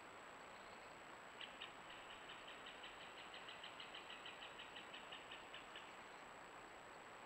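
A bird calling a steady series of about twenty short, high notes, about four or five a second, starting a second and a half in and stopping a second and a half before the end. Underneath is a faint steady hiss with a thin high whine.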